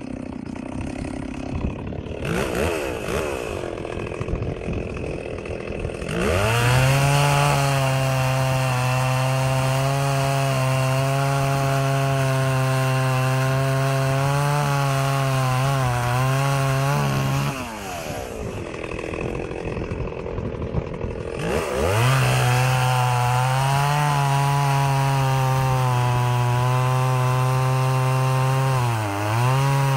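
Stihl 038 Magnum two-stroke chainsaw running. It blips at lower revs for about six seconds, then climbs to high revs held steady for about eleven seconds, drops back for a few seconds, and climbs to high revs again, with a brief dip near the end.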